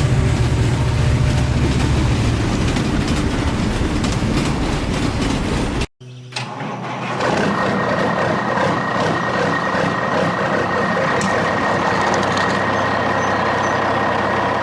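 Vehicle engine sound effect: a low rumble that cuts out suddenly about six seconds in, then an engine that starts up and runs steadily.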